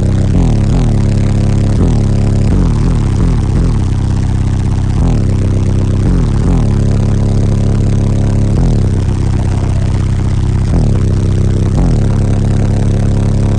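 Bass-heavy music played very loud through a truck's car audio system of eight 12-inch subwoofers on 60,000 watts, its deep bass notes repeatedly sliding down in pitch.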